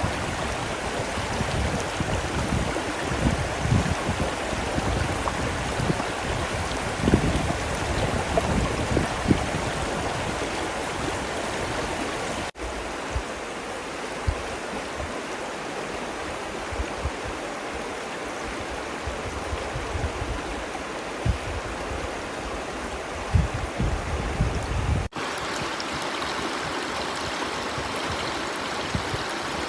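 River water rushing steadily, with low gusty rumbles now and then in the first part. The sound changes abruptly twice, about twelve seconds in and again near twenty-five seconds.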